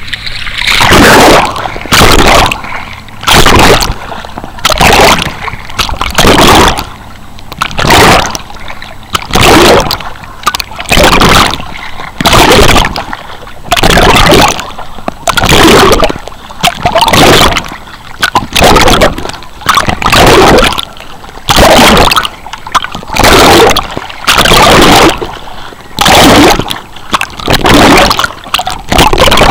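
Rhythmic, loud splashing of swimming strokes in ocean water close to the microphone, one splash about every second and a quarter.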